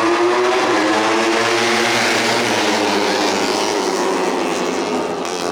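Several 150cc four-stroke underbone racing motorcycles running hard at high revs, their engine notes overlapping and rising and falling in pitch.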